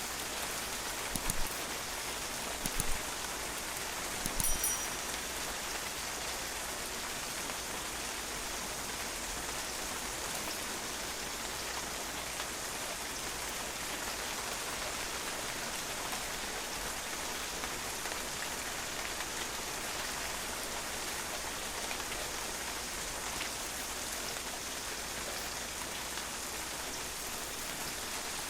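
Steady rain falling on a patio, drops splashing off the hard surface in an even hiss, with a few louder taps in the first five seconds.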